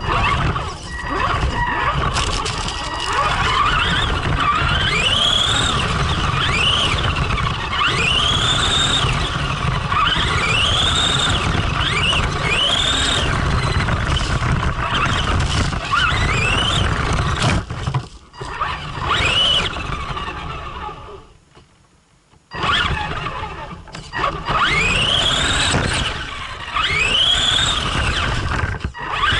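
Arrma Granite radio-controlled monster truck's electric motor whining up and falling back in repeated throttle bursts, over a steady rush of noise. The sound drops away briefly a little past the middle.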